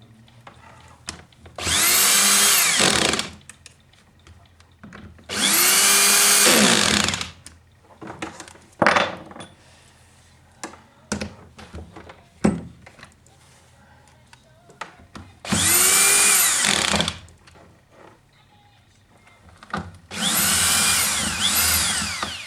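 An electric drill running in four short bursts of a second or two each, its motor whine rising and falling in pitch with each squeeze of the trigger. Short clicks and knocks of handling fall between the bursts.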